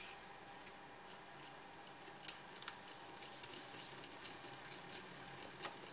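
Small electric motor and gear train of a Meccano helicopter model running with a faint, steady whir, gears clicking now and then, and one sharp click a little over two seconds in.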